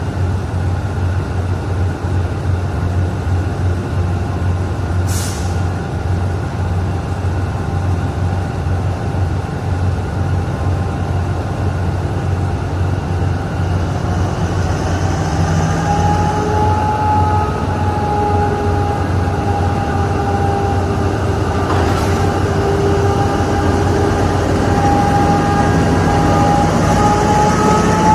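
Alsthom diesel-electric locomotive running under way with a steady low rumble and whining tones that rise slightly in pitch in the second half. Two brief sharp sounds cut across it, one about five seconds in and one about twenty-two seconds in.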